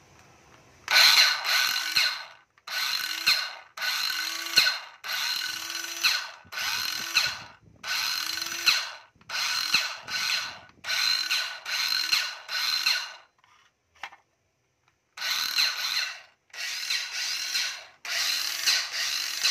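12 V Panasonic cordless drill/driver run in about a dozen short trigger pulls. Each burst spins up with a rising whine, runs for about a second and stops, with a longer pause about two-thirds of the way through.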